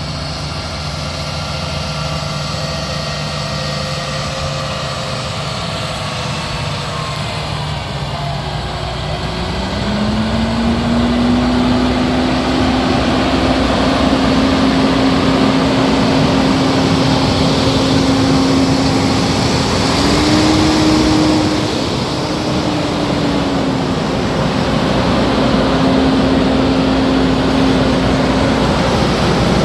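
Case IH Magnum 235 tractor's diesel engine running. It idles steadily, then speeds up about a third of the way in and holds the higher speed. It rises briefly once more past the middle before settling back.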